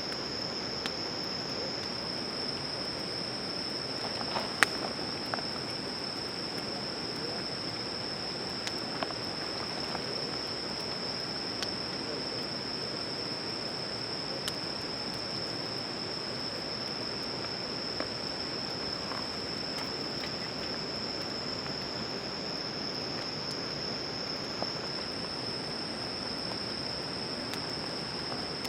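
A late-summer chorus of crickets or other singing insects makes a steady high-pitched trill. Over it, a wood campfire gives occasional sharp pops and crackles, the loudest about four to five seconds in.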